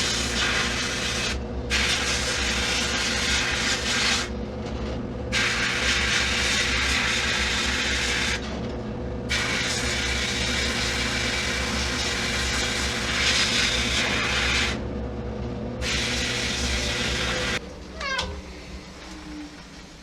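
Sandblast cabinet in use: the compressed-air blast gun hisses in long bursts with short pauses between, over the steady hum of the cabinet's motor. Near the end the blasting and the hum stop, followed by a brief squeal that glides in pitch.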